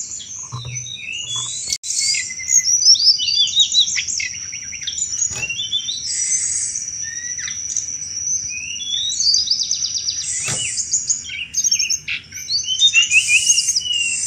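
Tledekan gunung singing in fast, chattering 'cetrekan' phrases: rapid runs of short, high chirps, over a steady high-pitched tone and with a few sharp clicks.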